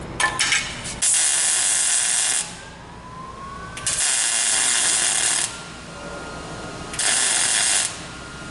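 Welding on steel rust-repair metal in the car's trunk floor: three short bursts of welding hiss, each about one to one and a half seconds long, with a few sharp clicks just before the first.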